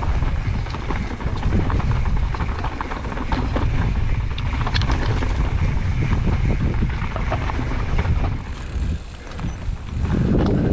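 Mountain bike riding over a rough trail: wind buffets the microphone in a steady low rumble, with scattered clicks and rattles from the tyres and bike over rocks. The noise dips briefly near the end.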